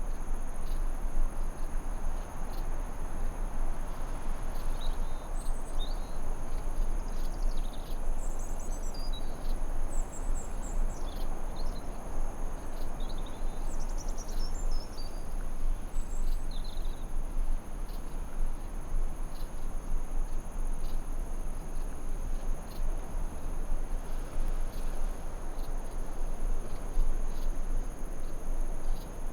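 Forest ambience: a steady high-pitched cricket chorus over an even wash of low noise, with short bird chirps scattered through the first half.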